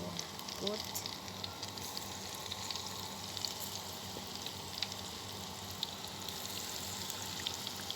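Vegetable fritter batter frying in hot oil: a steady sizzle with many small crackles and pops scattered through it.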